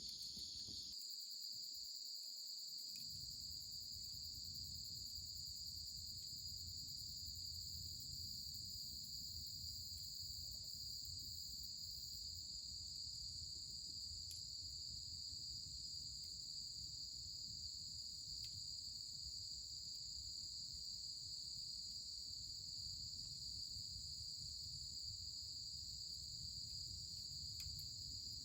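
Steady, high-pitched chorus of crickets trilling without a break, with a low rumble underneath and a few faint clicks.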